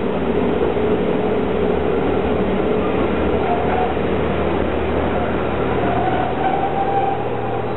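Steam locomotive 7673 and its train at the platform: a steady loud rushing noise over a low hum, with a faint thin squeal that rises and fades twice.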